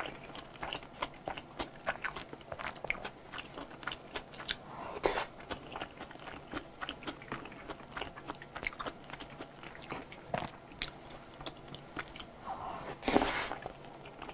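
Close-miked eating sounds: steady chewing with many small wet mouth clicks, with a louder, longer sound near the end.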